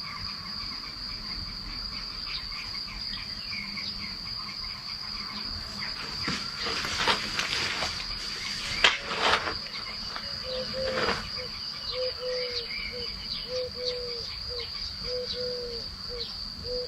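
Insects trilling, a steady high-pitched tone, with a few sharp clicks around the middle. From about ten seconds in, a short low call repeats a little under twice a second.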